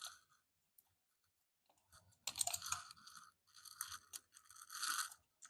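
Plastic packaging crinkling and crunching in three short bursts of handling, after a second or so of near silence, as a zip-tied key is cut free and unwrapped.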